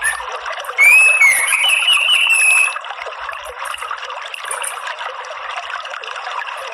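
Orange-headed thrush singing one loud phrase of sliding whistled notes, lasting about two seconds and starting about a second in, over a steady trickling-water background. Faint short high chirps follow.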